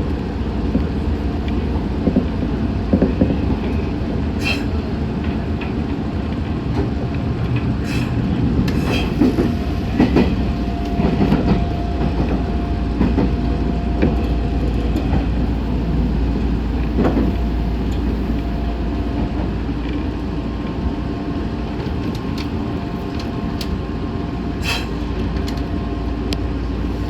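Meitetsu 6500 series electric train running, heard from inside the front car: a steady rumble of wheels on rail with a few sharp clicks. A thin steady tone comes in about ten seconds in and a second, higher one about twenty seconds in.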